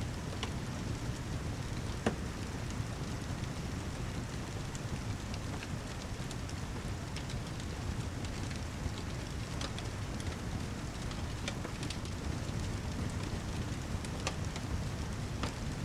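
Steady heavy rain with a low, even rumble underneath, and scattered sharp pops from a crackling fireplace.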